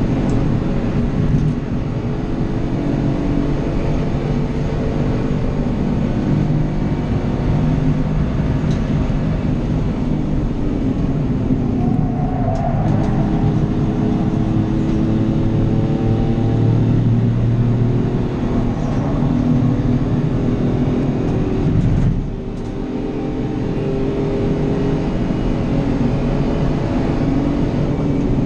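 Race car engine heard from inside the cabin, revving up through the gears and falling back under lifts and downshifts over and over, with a sharp drop in revs about 22 seconds in before it climbs again.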